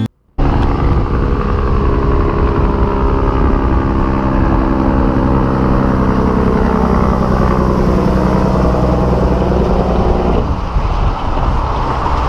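Heavy truck's diesel engine running steadily. It starts abruptly after a short silence and its tone changes about ten seconds in.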